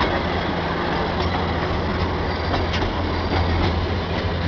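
Darjeeling Himalayan Railway narrow-gauge toy train running: a steady rumble with a low hum and a few sharp wheel clicks.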